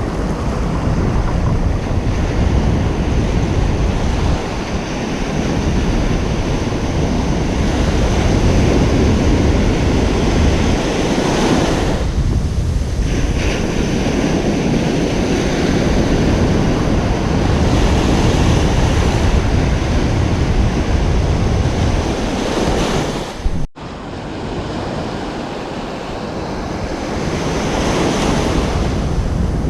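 Ocean surf washing continuously onto a beach, swelling and easing in slow surges, with wind buffeting the microphone in the low rumble. The sound drops out for a split second about three-quarters of the way through.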